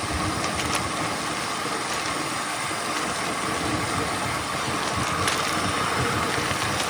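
Mountain bike coasting downhill on a dirt trail: steady tyre rumble and wind noise, with a faint steady buzz and a few brief rattles.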